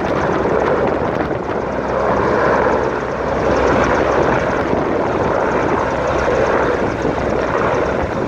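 Rescue helicopter's engine and rotor running steadily: a loud, even rush of noise.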